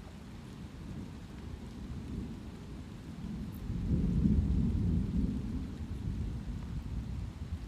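Rolling thunder over steady light rain: a low rumble swells about four seconds in, peaks for a second or so and slowly dies away.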